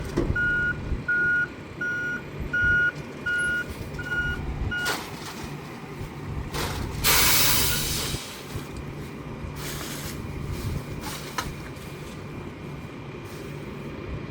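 Rear-loader garbage truck backing up: its reversing alarm beeps evenly about every two-thirds of a second for about five seconds and then stops, over the steady running of its diesel engine. About seven seconds in, a loud hiss of air from the air brakes.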